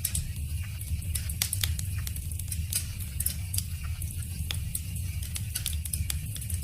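Wood fire crackling: many irregular sharp pops and snaps over a steady low rumble of the flames.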